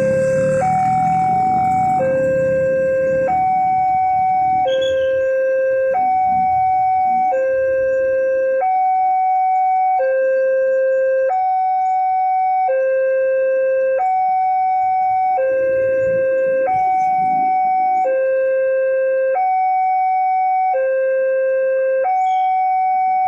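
Railway level-crossing warning alarm sounding a steady two-tone signal, a lower and a higher tone alternating about every second and a half, which warns that a train is approaching. A low rumble runs underneath at the start and again about two-thirds through.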